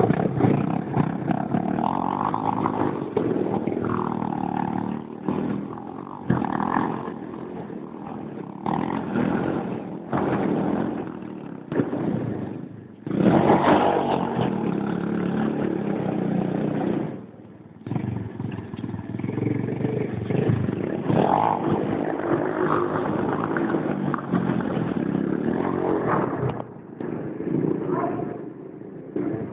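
Small single-cylinder pit bike engine revving hard in repeated bursts during a burnout, with the rear tyre scrubbing. The level dips briefly a few times between revs.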